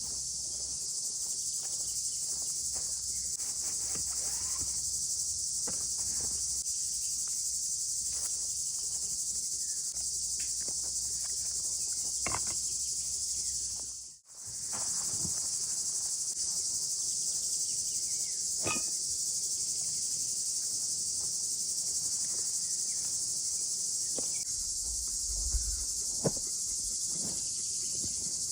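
Steady chorus of crickets, a high, dense chirring that breaks off for a moment about halfway, with scattered faint clicks underneath.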